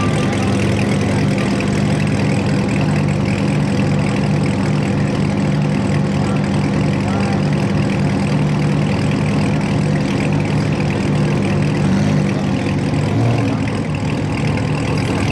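Car engine idling steadily, a low even hum with a slight shift in pitch about twelve seconds in.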